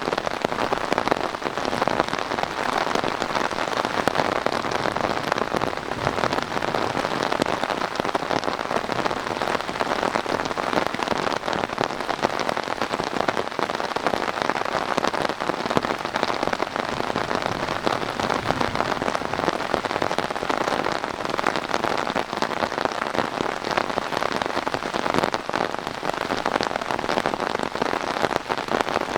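Summer thunderstorm downpour: heavy rain falling steadily, a dense, even patter of countless drops.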